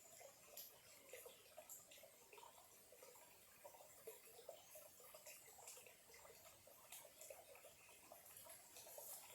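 Faint trickle of a small stream, with irregular light plinks and clicks of the water.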